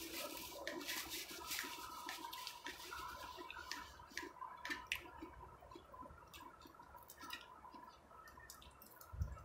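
Close-up eating sounds: wet chewing and lip-smacking with many small scattered clicks, and a soft thump near the end.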